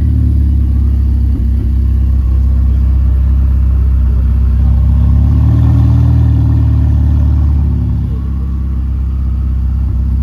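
A car engine running with a steady low rumble, swelling a little through the middle and easing off near the end.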